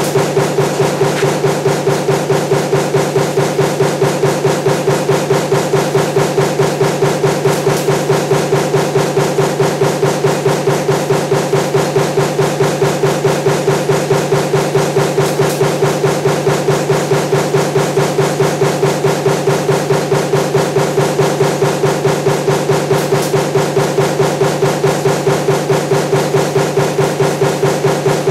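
Power punch press running a stamping die for table fan motor parts, striking continuously in a fast, even rhythm of several strokes a second over a steady machine hum.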